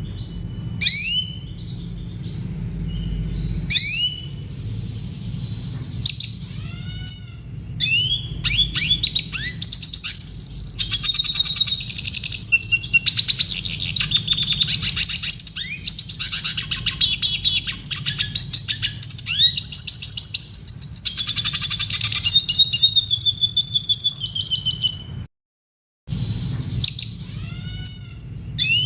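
Red siskin singing: separate rising whistled notes, then a long run of fast, dense twittering and trills. The song cuts out completely for under a second about 25 s in, then resumes. A steady low hum runs beneath it.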